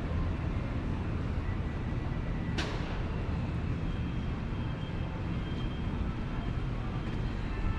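Street traffic rumbling steadily, with a single sharp click about two and a half seconds in.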